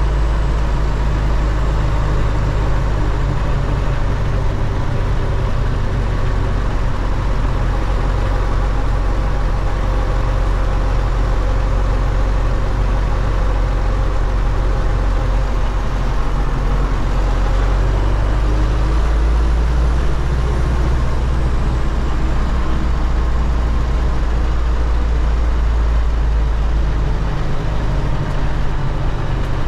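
The MTZ-80 tractor's 4.7-litre D-243 diesel engine running steadily, its note changing slightly about two-thirds of the way through.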